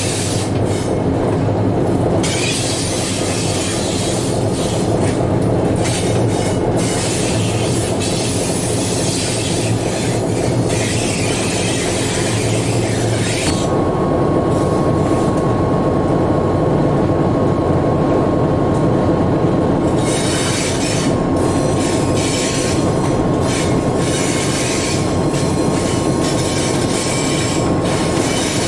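Alco S4 diesel switcher running on the move, heard from inside its cab: a steady engine-and-rail din with wheel noise on the track. About halfway through, a thin steady squeal joins in and holds.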